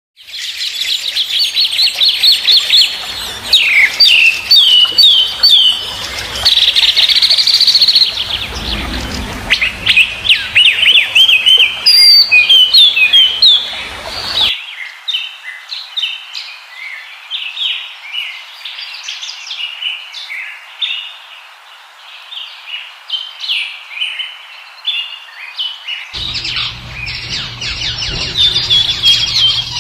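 Birds chirping and singing, with many quick, high chirps and trills overlapping. The background changes abruptly twice, about halfway through and again near the end.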